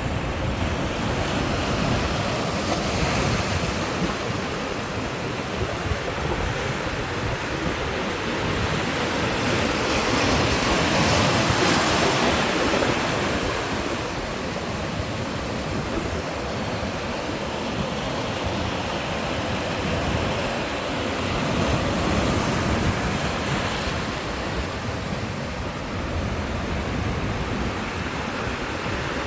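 Heavy sea surf breaking and washing ashore, a continuous rush that swells loudest about a third of the way in and again past the middle.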